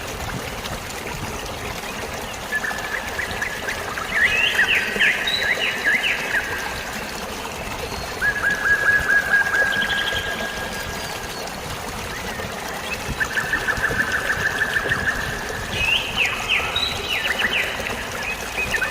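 Steady trickling, splashing flowing water with birds singing over it in short phrases of rapid trilled notes, about four phrases spread through the stretch.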